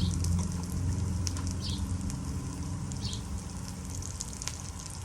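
Canola oil sizzling and crackling around breaded chicken thighs shallow-frying on a hot flat-top griddle, with irregular pops over a steady low hum.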